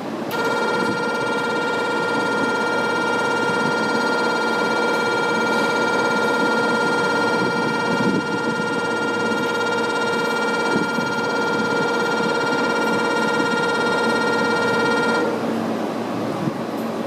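Railway station platform departure signal: a steady electronic buzzer tone sounding for about fifteen seconds, then cutting off suddenly. It sounds over a constant background of wind and station noise.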